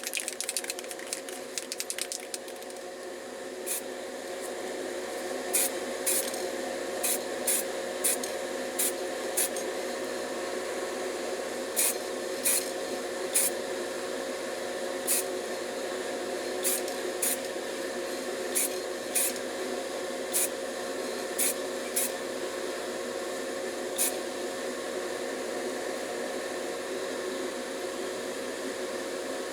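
Spray paint going on in short quick bursts, about twenty brief hisses spread over the first twenty-odd seconds, over a steady background hum.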